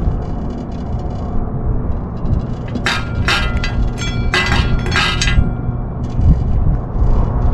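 Strong wind buffeting the microphone, with a quick run of five or six bright clinks and rattles about three seconds in.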